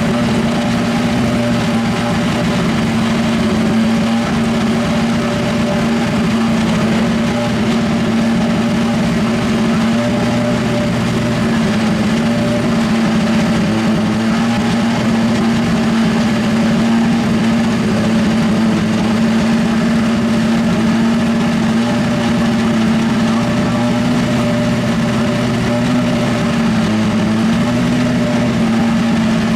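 Honda 2.0-litre turbocharged four-cylinder engine of a Super Formula race car running at a steady fast idle while warming up, its pitch holding nearly level with only slight wavers.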